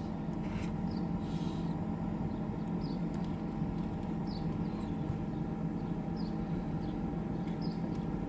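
The Kings 75L dual-zone portable fridge's compressor running with a steady hum while the fridge is cooling. Short high bird chirps come about once a second over it.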